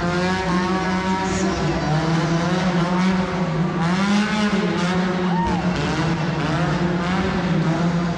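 Monster truck engine running loudly and steadily, its pitch rising slightly about four seconds in.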